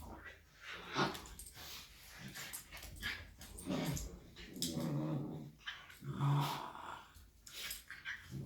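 Shiba Inu and Bernese mountain dog puppy play-growling as they wrestle: several low growls in short bouts, the longest about halfway through, with sharp clicks in between.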